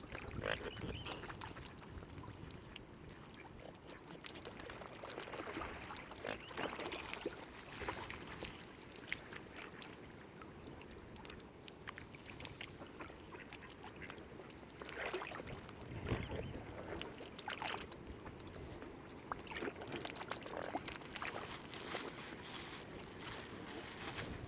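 Lake water lapping, with irregular duck-like waterfowl calls and wind on the microphone.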